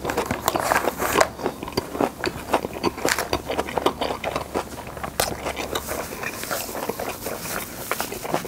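Close-miked eating sounds: wet, smacking chewing of pepper japchae and steamed flower buns, with frequent crisp crunching bites.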